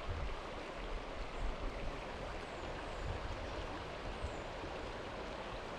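Mountain stream water rushing steadily, with a few low bumps in the first two seconds.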